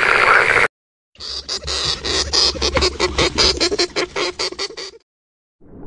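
Hedgehog foraging: a fast, irregular run of clicking and rustling sounds over about four seconds, beginning after a short gap and ending abruptly. In the first second the tail of a toad's call cuts off sharply.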